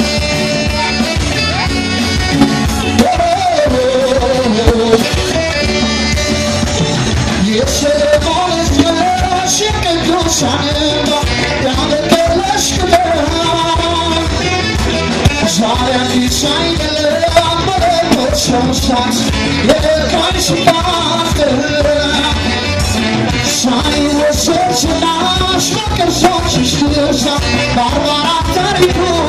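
An Ethiopian pop song performed live: a singer's melody over a band with a steady drum beat.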